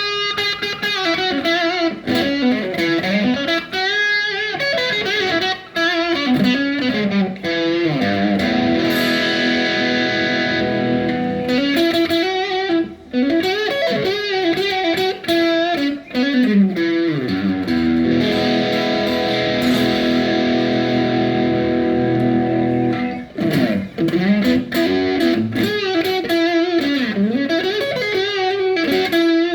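PRS Custom 24-08 electric guitar played through an amplifier: quick runs of notes sweeping up and down, with two stretches of held, ringing chords in the middle.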